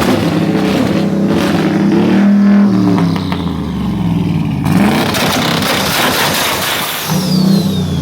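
Twin-turbo LS V8 revved hard against a two-step launch limiter: the engine climbs and holds at the limiter with rapid crackling pops, drops, then gives way to a loud rushing blast with a falling whistle before the engine note comes back near the end.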